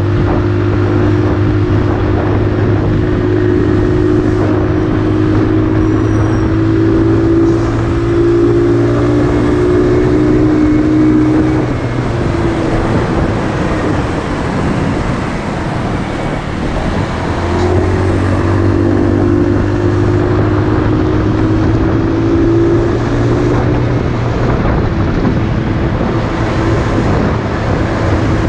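Motorcycle engine running steadily under way, with rushing wind over it. The engine note drops away for a few seconds midway, then picks up again.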